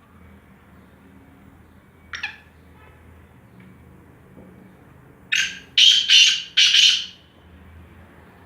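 Black francolin calling: one short harsh note about two seconds in, then a loud grating phrase of four notes in quick succession.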